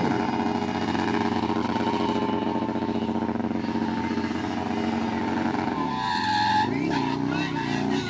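Motorcycle engine held at steady high revs for about six seconds, then it drops and is revved up and down in short blips.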